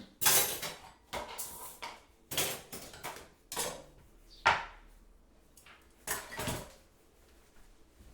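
Kitchen crockery and cutlery clinking and clattering in a string of about eight separate knocks and clinks, the sharpest about four and a half seconds in, easing off near the end.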